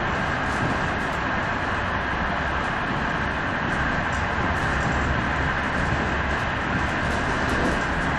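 Steady rumble and running noise of a train moving at speed, heard from inside the passenger carriage.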